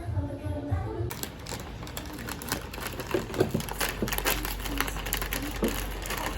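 Background music for about a second, then a sudden cut to a dense run of rapid clicking and clattering over a low hum.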